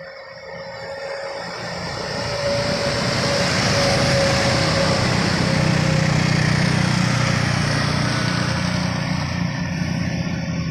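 Loaded sugarcane truck's diesel engine pulling hard at full throttle. It grows louder over the first three seconds as the truck comes closer, then runs loud and steady.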